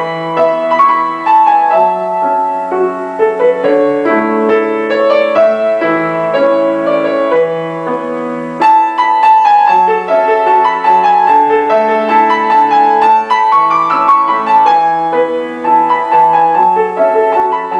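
Solo piano music: a flowing melody of held notes over a slow-moving accompaniment.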